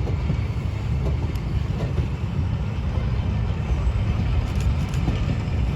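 A train's steady low rumble.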